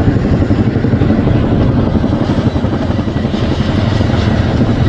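Firefighting helicopter rotor noise: a loud, steady, rapid low thudding with a thin high whine above it.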